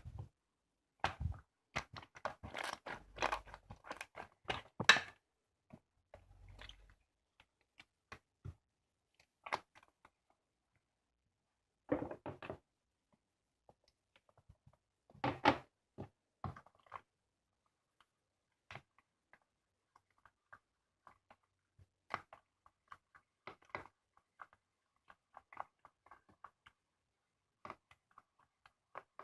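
Hands squeezing and poking a freshly made 액괴 (homemade slime), giving wet squishes and small sticky clicks and pops. There is a busy run of squishing in the first few seconds, a few louder squelches later, then scattered faint clicks.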